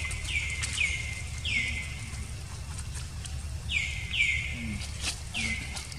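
A bird's short chirps, about six of them, each falling in pitch, coming singly and in quick pairs over a steady low background hum.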